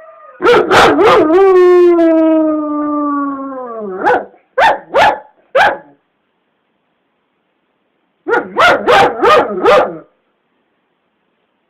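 A dog howling in one long call that slides down in pitch, then giving three or four short yelps. After a cut, a dog barks five times in quick succession.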